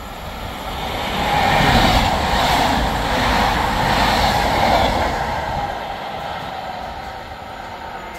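Passenger train passing through a station without stopping, a rushing rail noise that builds about a second in, stays loud for a few seconds and then fades as it goes away.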